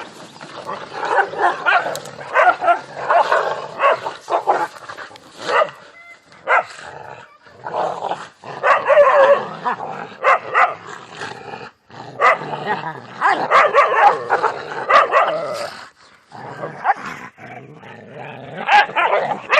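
Dogs fighting, growling and barking in repeated loud flurries separated by short pauses.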